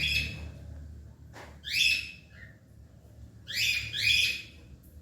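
A bird giving four short, harsh calls, the last two close together near the end, over a low steady background rumble.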